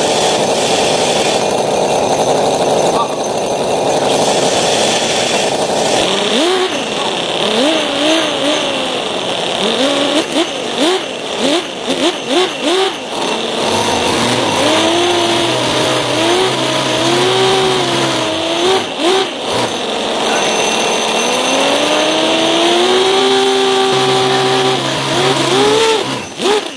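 Miniature V8 and V12 model engines running together on nitrous at high revs, screaming. After a steady stretch, their pitch rises and falls over and over with the throttle, wavers, then climbs in one long rise near the end.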